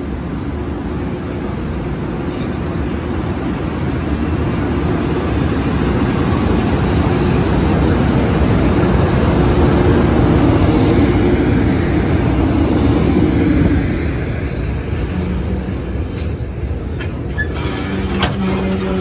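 JR Freight EH500 electric locomotive hauling a container freight train slowly along the platform, a steady rumble of wheels on rail that builds to a peak and then eases as the train slows. Thin wheel or brake squeals and a steady hum from the locomotive come in near the end.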